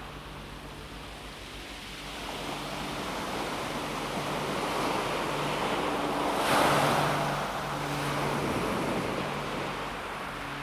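Calm sea waves washing onto a pebble beach. The surf swells, one wave breaks and washes over the pebbles about six seconds in, the loudest moment, then the sound ebbs.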